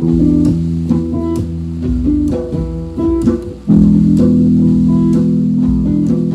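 Guitar and bass guitar playing an instrumental passage, coming in loud at the start; after a short dip about three and a half seconds in, a full sustained chord rings out.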